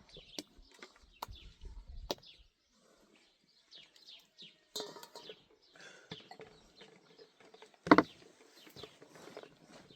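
Small birds chirping in short repeated calls, with scattered sharp knocks and clicks and one louder clatter about two seconds before the end.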